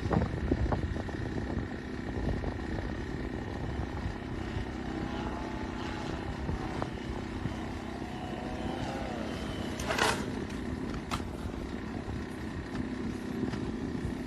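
Drone propellers and motors humming steadily under wind noise. A few faint wavering tones sound in the middle, and a short sharp rushing burst comes about ten seconds in.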